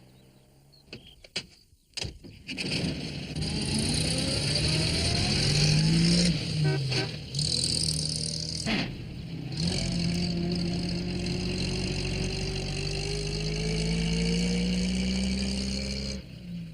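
A motor vehicle's engine running as it drives off, its pitch rising, then rising slowly again after a short break. A few clicks come before the engine is heard.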